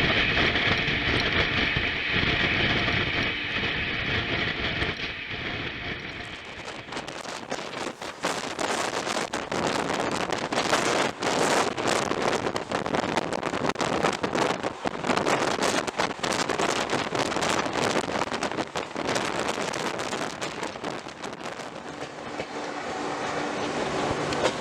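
Passenger train running on the rails: a steady hiss at first, then from about seven seconds in a dense rattling clatter of wheels and coaches.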